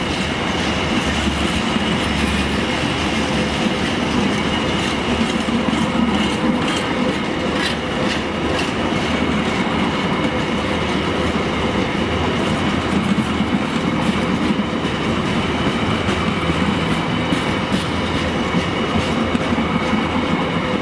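A freight train of container flat wagons, mostly empty, rolling steadily past close by: a continuous rumble and clatter of wheels on rail, with rhythmic clicks as wheels cross rail joints and a thin steady high whine over it.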